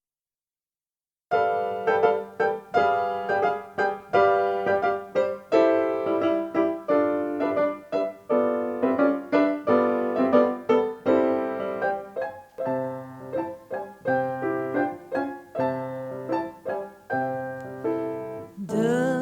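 Solo piano playing the introduction to a fado song: a flowing run of struck notes and chords that starts about a second in. A woman's singing voice comes in just before the end.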